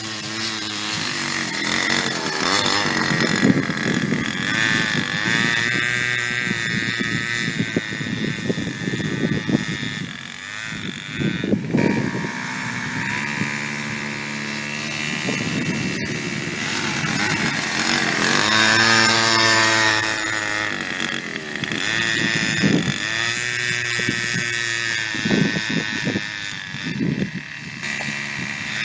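Small 49cc two-stroke engine of a children's mini off-road bike, revving up and easing off over and over as it is ridden, its pitch rising and falling.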